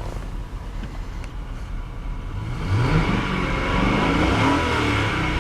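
2003 Lincoln Town Car's 4.6-litre modular V8 running at idle, then revved a little under three seconds in and held at higher revs.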